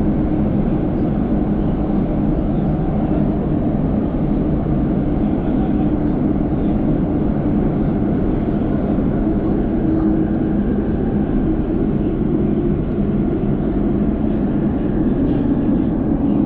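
Elizabeth line Class 345 train running through a tunnel, heard from inside the carriage: a steady rumble with a few steady low tones running through it.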